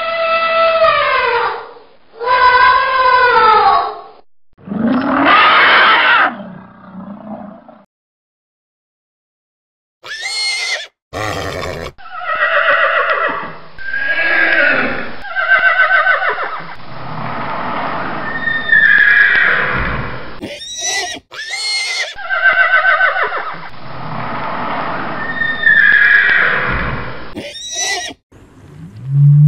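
An elephant trumpeting in a few loud calls that fall in pitch. After a short silence comes a herd of horses neighing and whinnying, with repeated quavering calls that drop in pitch.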